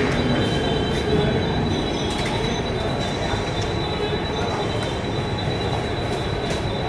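Mumbai suburban EMU train rolling slowly alongside the platform: a steady rumble of wheels and running gear with a thin, steady high squeal on top.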